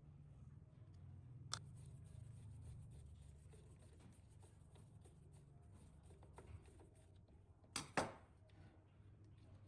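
Quiet hand work with small metal parts: a light click about one and a half seconds in, then two sharp clicks close together near eight seconds, over a low steady hum.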